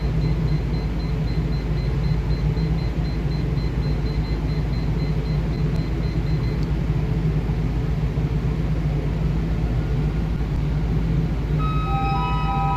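Loud, steady engine-room machinery rumble from a ship's engine room during a main engine overspeed test. A faint, rapidly pulsing high beep stops about two-thirds of the way through. About a second before the end, an alarm starts sounding as a chord of several steady tones.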